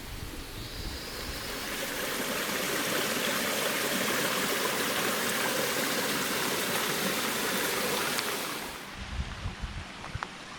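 Running water rushing steadily, like a stream or small waterfall. It builds over the first couple of seconds and cuts off sharply near the end.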